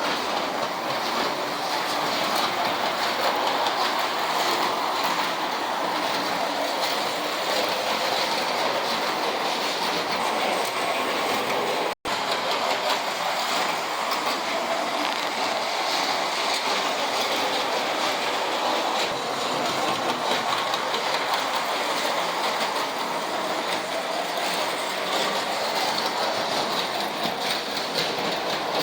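Vintage Lionel electric toy summer trolleys running on their track, a steady rattle of motors and wheels on the rails, with a momentary break about twelve seconds in.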